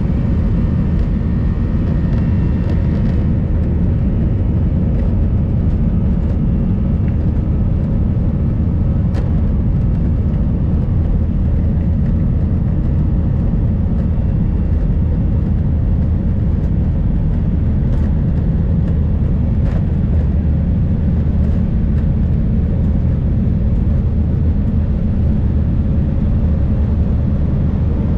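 Airbus A320 jet engines at takeoff thrust, heard inside the passenger cabin: a loud, steady low rumble. A faint high whine fades out over the first few seconds.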